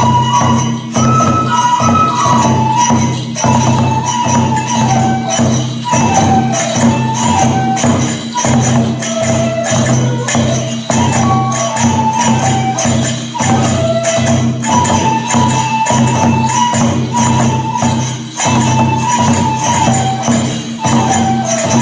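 Kagura accompaniment: a high bamboo flute melody stepping between notes over steady, rapid drum strokes and jangling small hand cymbals.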